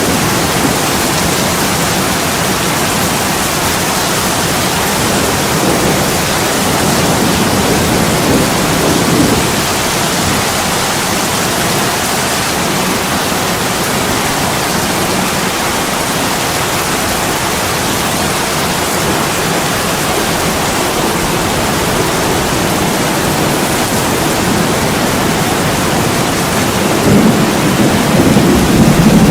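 Steady heavy rain pouring on window glass, with a low rumble swelling up about a third of the way in and again, louder, near the end.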